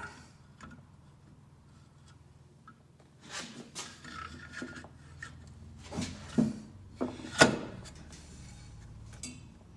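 VW air-cooled engine crankcase halves being lined up and fitted together by hand: a few scattered metal knocks and clunks, the sharpest about seven seconds in, after a quiet start.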